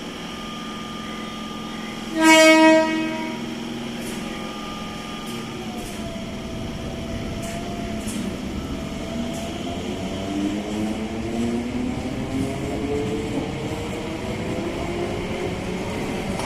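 Train horn sounds once, a short loud blast about two seconds in. A train then runs through the metro station, its running noise carrying a whine that climbs slowly in pitch over the second half, with faint clicks from the rails.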